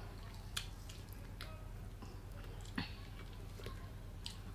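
Quiet chewing of roast duck and rice, with a few small sharp clicks and mouth smacks.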